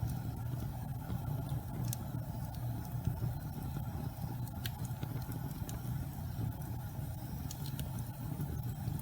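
Wood fire burning in a fireplace: a steady low rumble of flame with scattered sharp crackles and pops from the burning wood, a few of them about two and four and a half seconds in and several more near the end.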